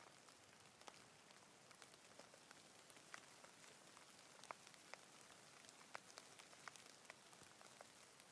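Light rain falling: a faint, steady hiss with single drops landing as irregular ticks scattered throughout.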